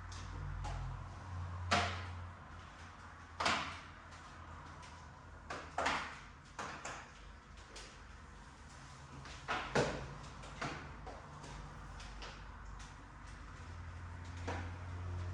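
A series of short knocks and clicks from objects being handled, with the loudest about two, three and a half, six and ten seconds in, over a steady low hum.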